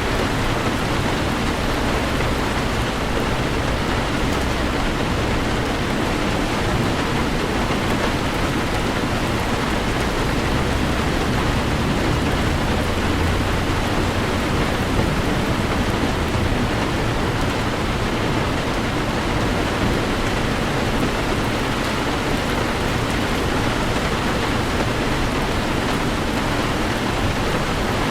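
Heavy rain pelting a moving car, heard from inside the cabin, with a low road rumble underneath.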